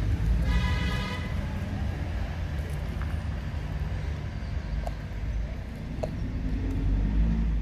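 Steady low rumble of road traffic, with a brief horn toot about half a second in.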